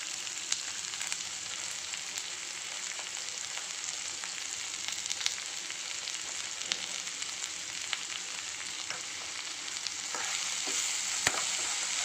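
Chopped okra and onion sizzling steadily in hot oil in a pan. About ten seconds in, a perforated steel spatula starts stirring, adding scrapes and clicks against the pan.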